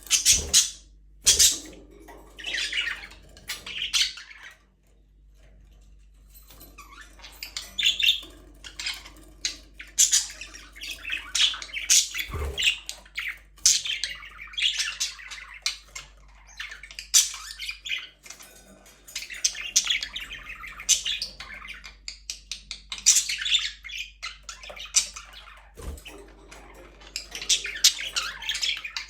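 Budgerigars chattering and chirping, with a quieter gap about five seconds in. A few sharp knocks cut through the calls.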